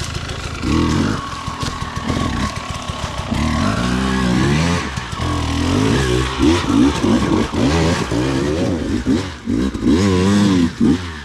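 Dirt bike engine revved in repeated short throttle bursts, its pitch rising and falling again and again, the bursts coming closer together in the second half.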